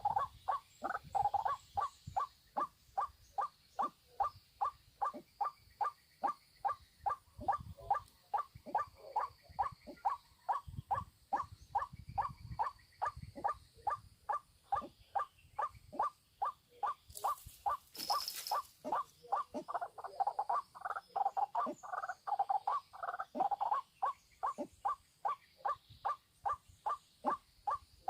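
White-breasted waterhen (ruak-ruak) giving its monotonous repeated call, a steady run of short croaking notes at about two to three a second that goes on without a break. A brief hiss cuts in about two thirds of the way through.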